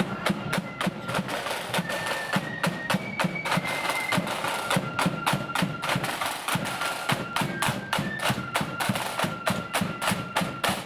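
Blood-and-thunder flute band playing a march: a high flute melody over fast, sharp snare drum strokes and bass drum beats.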